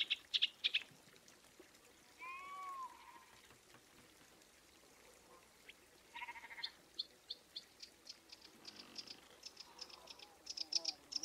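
Rapid series of high, bird-like chirps that stop about a second in. A short rising-and-falling animal call follows near 2 s and another brief call near 6 s. Then fast chirping resumes, growing louder toward the end.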